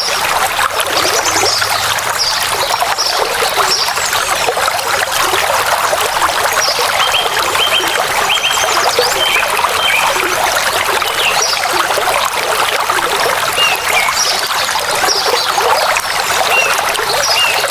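Steady rush of running water, like a stream, with short high bird chirps sounding now and then over it.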